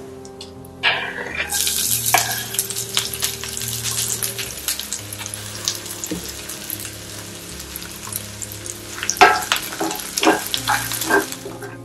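Chopped garlic and green chillies frying in hot oil in a cast-iron skillet, a sizzle that starts suddenly about a second and a half in and runs for about ten seconds. Near the end a spatula stirs them, with a few sharp knocks against the pan.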